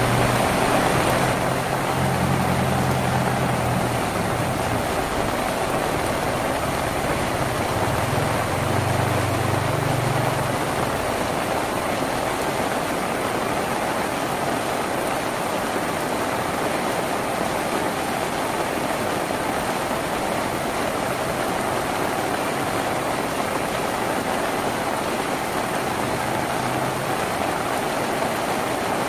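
Steady rain drumming on a tin roof, an even hiss of drops. A low hum sits under it for the first ten seconds or so, then fades.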